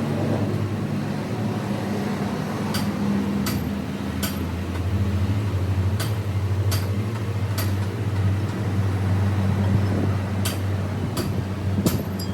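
A workshop machine running with a steady low hum, with a dozen or so sharp metallic clicks at irregular intervals of under a second to a few seconds.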